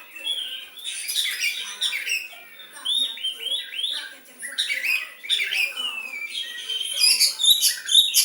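Oriental magpie-robin (kacer) singing a continuous, varied song of quick chirps and whistled phrases, worked with notes taken from the sooty-headed bulbul (kutilang).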